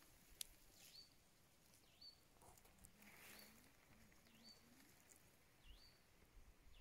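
Faint bird calling: one short whistled note that dips and then rises, repeated about once a second.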